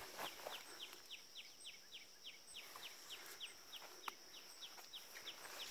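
Faint outdoor ambience: a bird calling a fast, even series of short, high, falling notes, about four a second, over a steady high-pitched insect drone.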